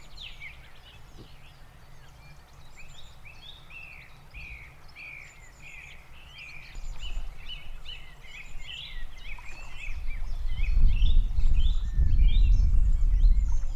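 Songbirds chirping and singing in a rapid run of short rising and falling notes. A low rumble builds up underneath about halfway through and is the loudest sound near the end.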